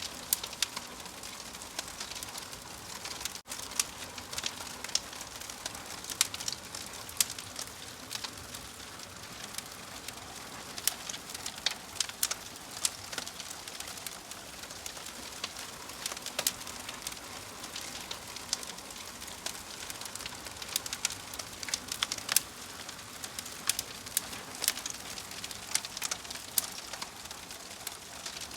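Wood fire crackling: a steady hiss with frequent sharp pops and snaps, broken by a momentary dropout about three seconds in.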